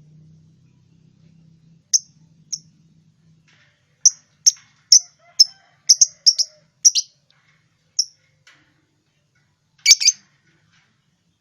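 Lovebird chirping: short, sharp high chirps one at a time, with a quick run of them between about four and seven seconds in and a louder double chirp near the end.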